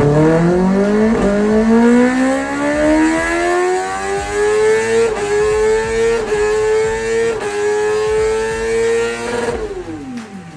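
Kawasaki Ninja ZX-10R inline-four engine accelerating hard, its pitch climbing steadily and then holding high with three brief dips. The pitch falls away as the throttle closes near the end.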